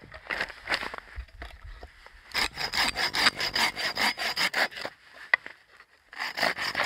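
Hand saw cutting through a firewood log in quick back-and-forth strokes. There is a long run of strokes starting about two seconds in and a shorter run near the end, with lighter scraping before.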